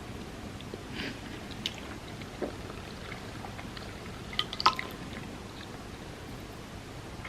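Close-up eating sounds from chocolate truffles in warm almond milk: a few small, wet clicks and squishes over a steady low hiss, with a sharper cluster of clicks a little past halfway.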